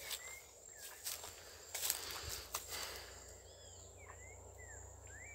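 Pond-side ambience: a bird gives a series of short chirps, about two a second, starting past the middle. A steady high-pitched insect drone runs underneath, and a few sharp clicks and rustles of handling sound in the first half.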